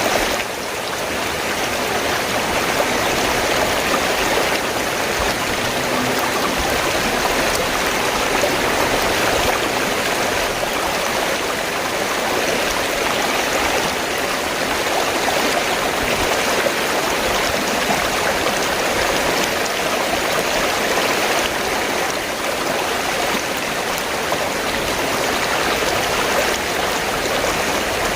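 River water flowing steadily, a continuous rushing and babbling of a stream.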